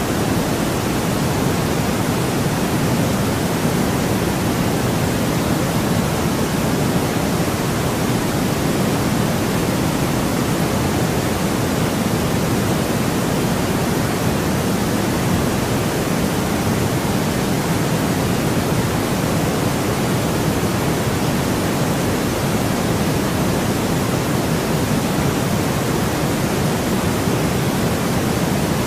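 Steady white noise for sleep: an even, unchanging hiss, weighted toward the lower end, with no events or variation.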